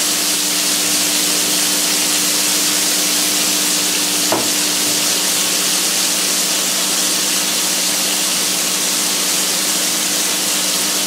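Frozen pearl onions sizzling in butter and oil in a hot skillet, a steady frying hiss, with a low steady hum underneath and one light click about four seconds in.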